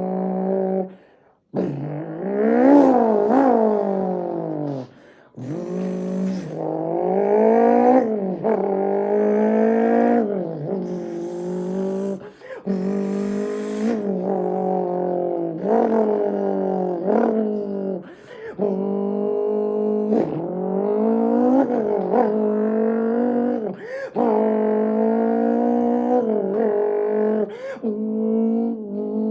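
A man imitating a Ferrari F40's engine with his mouth: a steady buzzing idle, then revs that sweep up and down in pitch over and over, breaking off briefly several times like gear shifts.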